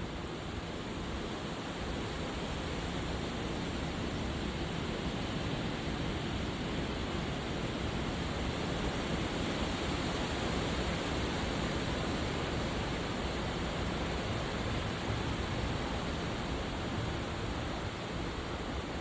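Strong wind blowing steadily, rumbling on the microphone, swelling a little partway through.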